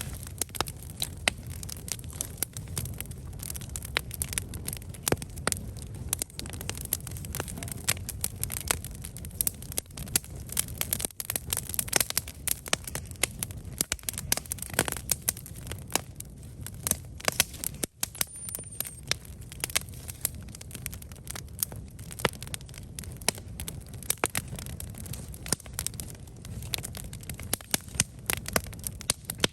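Campfire of burning wood crackling and popping in quick, irregular snaps over a low steady rumble.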